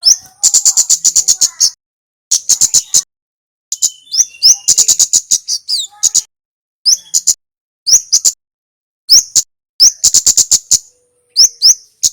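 Kemade songbird singing: repeated short phrases of very high, rapid chattering notes, each often opening with a quick upslurred note, with brief pauses between phrases.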